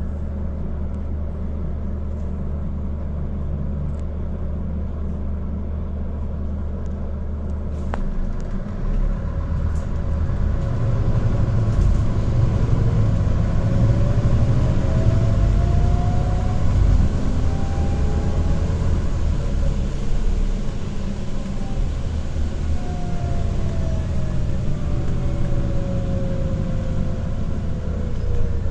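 Scania Citywide low-floor city bus: its engine idles steadily, then after a click about eight seconds in the bus pulls away. The engine grows louder under acceleration, with a faint whine that rises in pitch and later falls as the bus slows.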